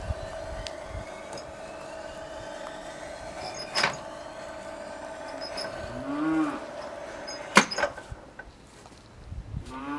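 The electric drive of a homemade profile bending machine runs with a steady whine, with a sharp click a little before the midpoint. The whine stops with a louder click about three-quarters of the way in. Twice, a short pitched sound rises and falls in pitch, once shortly before the second click and once near the end.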